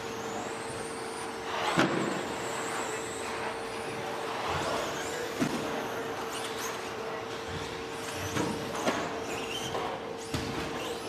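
Electric 2WD RC stadium trucks racing on a dirt track: high motor whines that rise and fall with throttle, and sharp knocks of trucks landing or hitting, the loudest about two seconds in.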